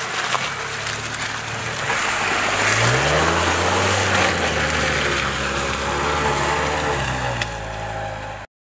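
Dacia Duster 4x4 being driven off-road: the engine's revs rise about three seconds in and then hold, over a steady rushing noise. The sound cuts off abruptly near the end.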